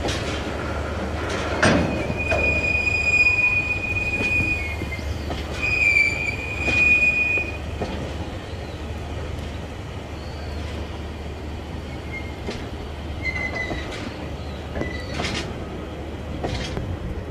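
Tank wagons of a freight train rolling slowly by, the wheels squealing in a thin high whine from about two seconds in until past the halfway mark, then fainter squeaks later. Scattered knocks come from the wheels and couplings, over a steady low rumble.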